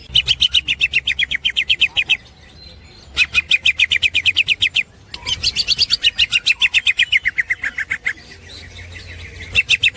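Green leafbird (cucak ijo) singing its chattering 'ngekek' song: rapid trills of sharp repeated notes, about a dozen a second, in four bursts of one to three seconds with short pauses between.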